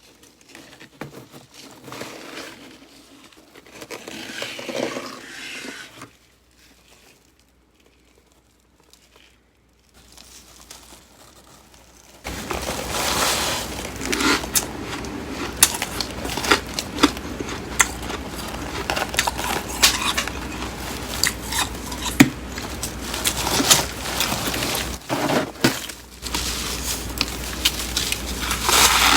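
Flaky, crisp freezer frost crunching and crackling: a few seconds of light crackle, a pause, then from about twelve seconds a dense run of sharp little cracks that carries on to the end.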